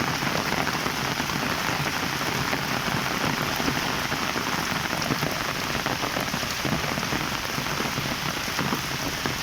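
Heavy rain falling steadily, an even hiss of drops striking surfaces.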